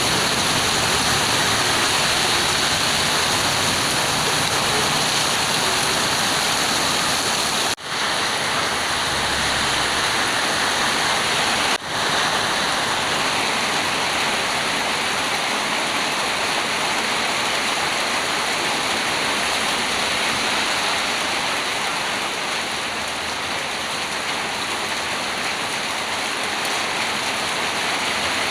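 Heavy downpour, a loud steady hiss of rain, dropping out suddenly and briefly twice, about 8 and 12 seconds in.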